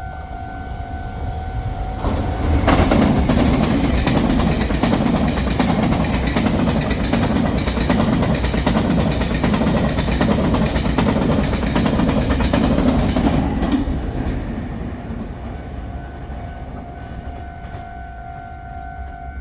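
A Taiwan Railways train passing through the station without stopping: a loud rush of wheel and rail noise starts suddenly about two and a half seconds in and fades away after about fourteen seconds. A steady electronic tone sounds under it before and after the train.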